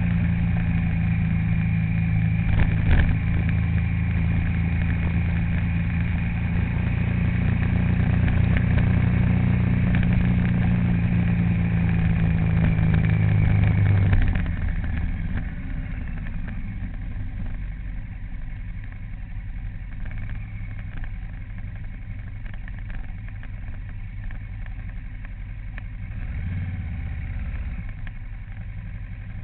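A vehicle engine running under way with a steady low hum. About halfway through it drops off to a noticeably quieter, lower-load sound.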